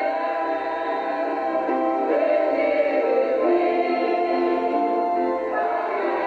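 Voices singing a hymn together, a steady sung melody.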